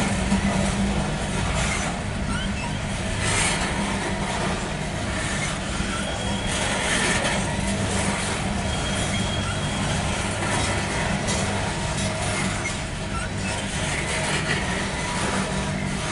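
Loaded coal hopper cars of a freight train rolling past: a steady rumble of steel wheels on the rails, with a few faint, short squeaks.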